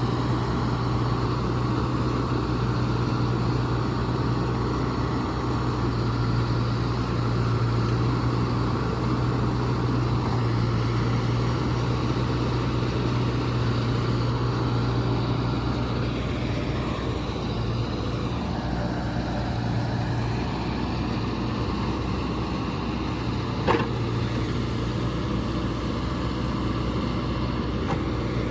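John Deere 310SK backhoe's diesel engine running at a steady speed, with one short sharp click about three-quarters of the way through.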